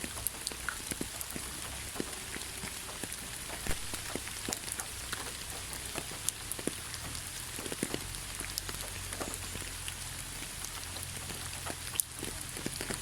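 Heavy rain falling steadily: a continuous hiss dotted with the sharp ticks of single drops landing on a surface, one louder drop hit near the end.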